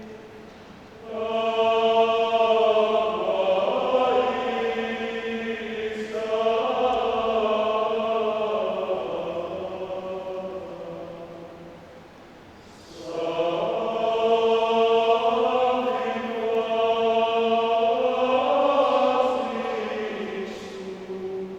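Men's choir singing in long held phrases, the voices swelling and fading, with a short breath pause about a third of the way in before the next phrase.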